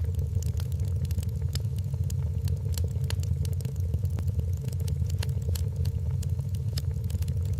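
Wood fire in a fireplace crackling: irregular sharp pops and snaps, several a second, over a steady low roar of the burning logs.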